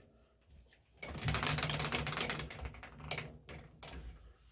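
Metal lathe running briefly with a rapid mechanical clatter over a steady hum. It starts about a second in and fades after about two seconds, leaving a few faint clicks.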